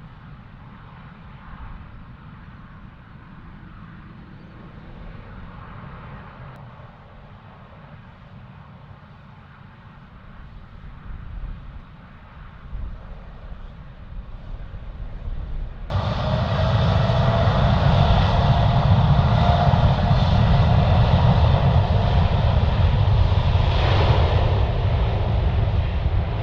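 Jet airliner engines: a faint distant rumble that slowly grows louder, then, about sixteen seconds in, a sudden jump to loud close engine noise with a faint steady whine over it.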